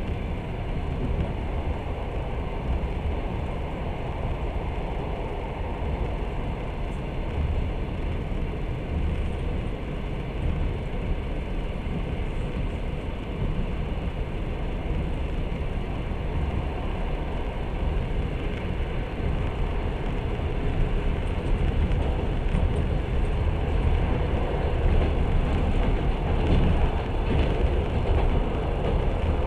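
Long-distance passenger train running along the track, heard from inside a carriage: a steady rumble of wheels on rails that grows a little louder in the last several seconds.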